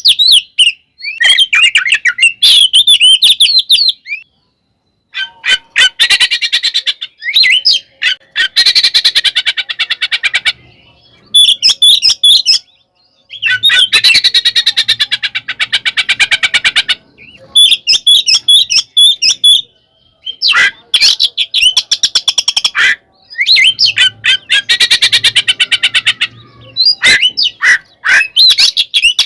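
Oriental magpie-robin (kacer) singing loudly in its continuous 'ngeplong ngekek' fighting song. Short whistled phrases alternate with three long bouts of very rapid, harsh repeated 'kek' notes, each lasting several seconds.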